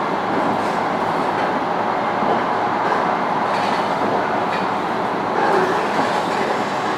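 Tokaido Shinkansen train running steadily, an even rumble of wheels on rail heard inside the passenger cabin, with a few faint ticks.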